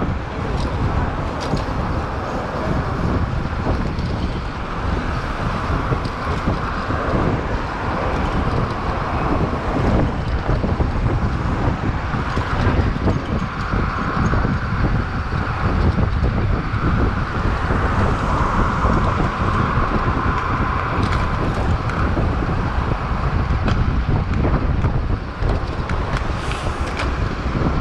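Steady, loud wind noise rushing over a GoPro microphone while riding a bicycle at speed, with road and traffic noise underneath.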